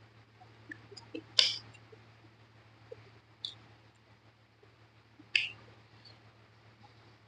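A person eating chicken: sparse wet mouth clicks and lip smacks while chewing, two of them sharp and loud, about a second and a half in and again after about five seconds, over a steady low electrical hum.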